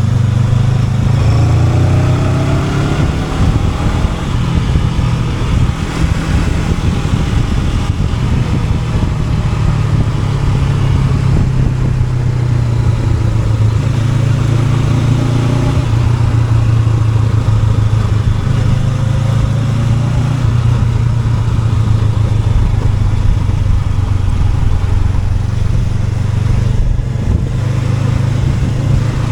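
Honda NX500 parallel-twin engine running under way. Its pitch rises as it accelerates a second or so in and again about halfway through.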